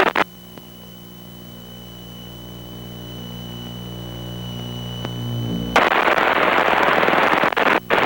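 Piper Seneca's twin piston engines and propellers droning through the cockpit intercom, with a thin steady high whine over them, slowly growing louder. A little over halfway through, a loud burst of radio hiss cuts in and runs on.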